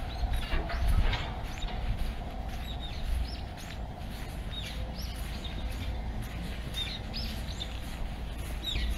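Small birds chirping: short high calls about twice a second, over a low steady city rumble.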